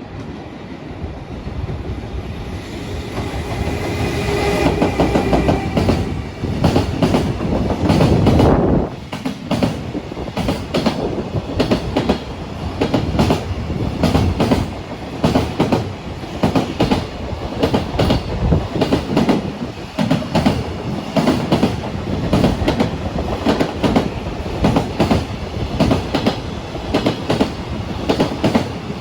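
A long train passing close by: its sound builds up, is loudest about eight seconds in, then continues as a steady, rhythmic clatter of wheels over rail joints as the cars go past.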